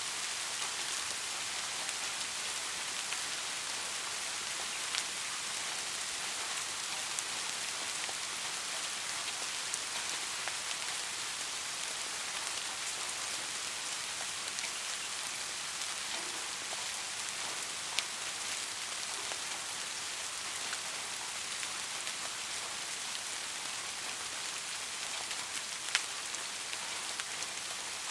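Steady rain falling on a surface, an even hiss with scattered sharp drop ticks; two louder drips stand out, about 18 and 26 seconds in.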